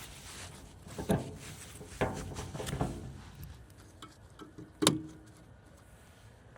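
A few separate knocks and clatters of hard objects being handled, the sharpest and loudest about five seconds in with a brief ring after it.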